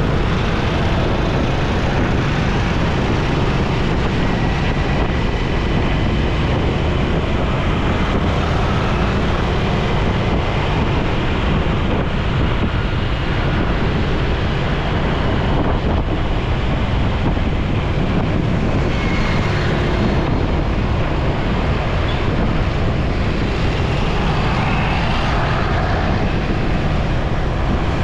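Steady road noise of a motorcycle riding in traffic, with wind rushing on the microphone over the engine and tyres.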